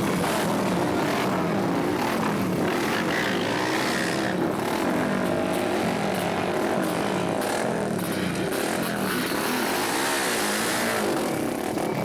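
Several flat-track racing motorcycles running together, their engine notes rising and falling and overlapping as the riders blip the throttles.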